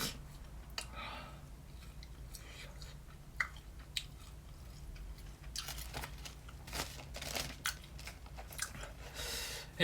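A person chewing ghost pepper beef jerky close to the microphone: scattered short wet mouth clicks and smacks over a faint, steady low hum.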